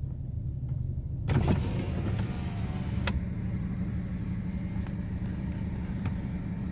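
Ford EF Fairmont's 4.0L inline-six idling after a cold start, a steady low exhaust note through a catless free-flow exhaust. About a second in the sound gets louder, with a faint rising whine after it and a single click about three seconds in.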